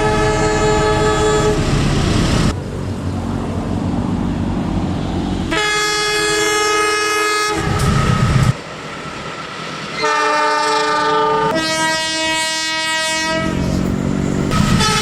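Train sound effects: a train horn sounds four times, each blast lasting a second or two, with rumbling clatter between the blasts.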